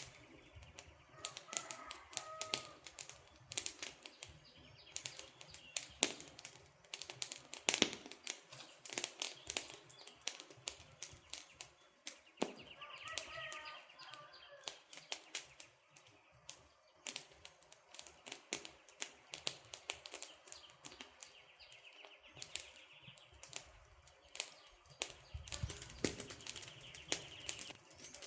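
Wood fire crackling with dense, irregular pops and snaps. A short pitched chirping call sounds twice, about a second and a half in and again about thirteen seconds in.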